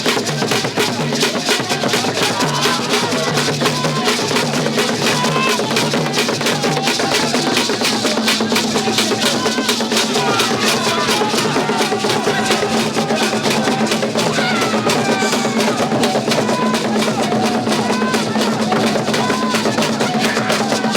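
Drum music with fast, dense drumming and a steady low tone beneath it, with short wavering pitched sounds over the top.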